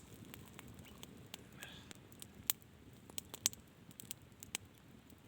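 Wood campfire crackling: irregular sharp pops and snaps, with two louder ones about two and a half and three and a half seconds in.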